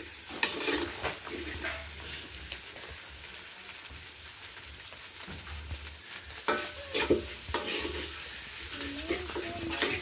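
Small fish frying in oil in a metal pot, with a steady sizzle. A utensil scrapes and knocks against the pot as the fish is stirred, the loudest knocks about seven seconds in.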